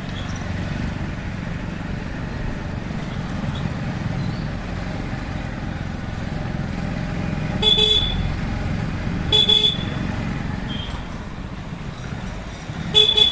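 Steady traffic and road rumble from riding a motorbike through city streets, with a vehicle horn tooting three short times: twice a little past halfway and once more near the end.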